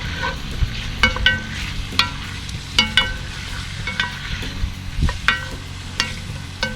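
Beef sizzling in a hot camp oven while a metal utensil stirs it, clinking and scraping against the pot about once or twice a second with a short ringing note.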